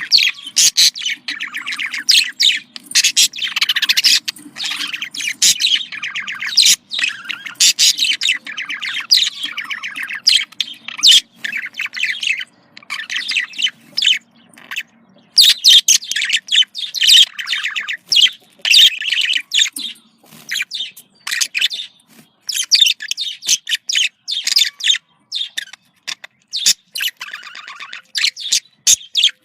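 Budgerigars chattering in fast runs of high chirps and squawks, broken by brief pauses: the excited courtship chatter used to get budgies in the mood to breed.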